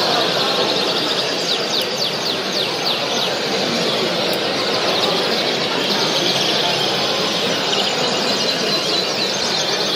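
Dense chorus of many caged colour canaries singing at once: continuous fast trills and chirps, with a low murmur of voices beneath.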